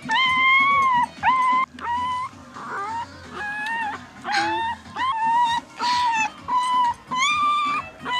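Pug puppy giving a run of high-pitched, whiny yaps, about ten in a row, roughly one every three-quarters of a second.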